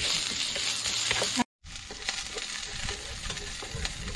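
Food sizzling in a hot pan as it is stir-fried. The sizzle breaks off briefly about one and a half seconds in, then carries on quieter, with light clicks from the stirring.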